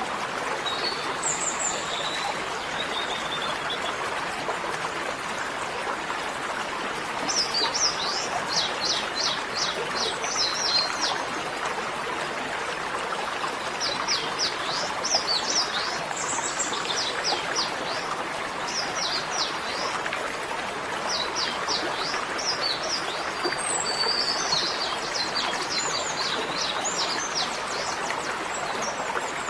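A steady rush of running water, like a stream, with a small bird singing repeated quick trills of high notes every few seconds.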